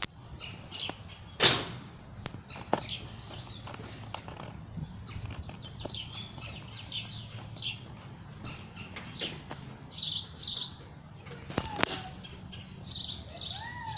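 A small songbird chirping over and over: short, high, falling chirps in quick groups. A few sharp knocks come in between, the loudest about a second and a half in.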